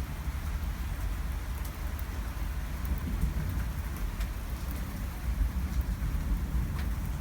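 Heavy rain pouring steadily, with scattered sharp drop ticks over a constant low rumble.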